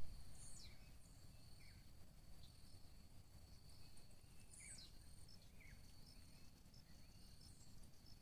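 Quiet woodland ambience: a faint steady insect drone, with a few short falling bird calls, about three, spread through.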